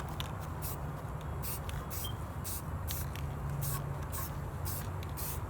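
Aerosol spray-paint can spraying in a series of short hissing bursts, about two a second, over a steady low hum.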